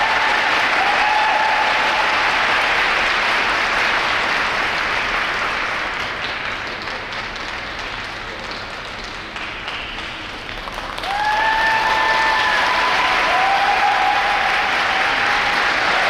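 Audience applauding, easing off in the middle and swelling again about eleven seconds in, with a few high held calls from the crowd.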